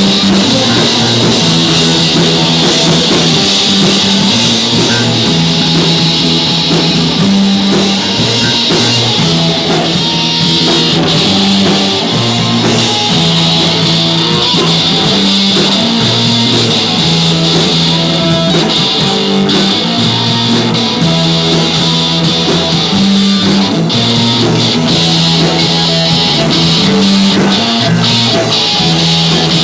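Live rock band playing, with electric guitar, bass and drum kit.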